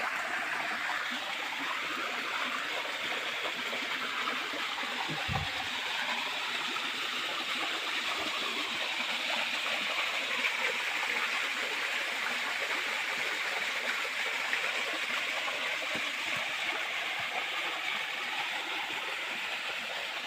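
Small waterfall splashing and rushing steadily into a stream, with a brief low thump about five seconds in.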